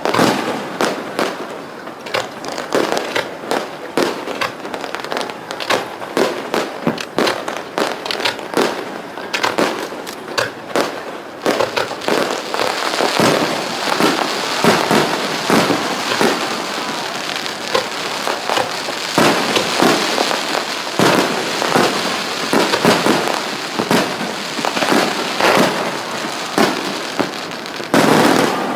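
Fireworks display: aerial shells bursting in rapid succession, a dense run of sharp bangs, with a thick crackling spread over the bangs from about halfway through.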